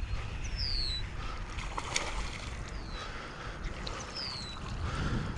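Strong wind buffeting the microphone with a steady low rumble. Three short high whistles fall in pitch across it, and there is one sharp click about two seconds in.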